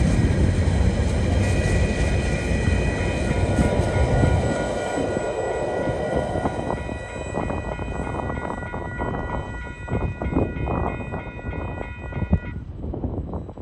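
Container flat wagons of a freight train rolling past, with a loud wheel rumble and clatter that drops away after about four seconds as the end of the train moves off. Level crossing bells ring steadily throughout and stop about a second before the end, once the train has cleared the crossing.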